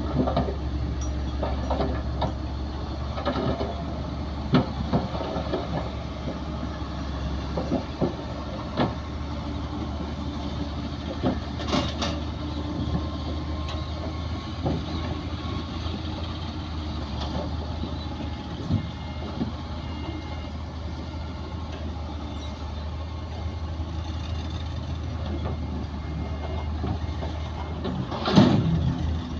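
Bulldozer's diesel engine running steadily with a low drone, with scattered short clanks and knocks throughout and a louder burst of them near the end.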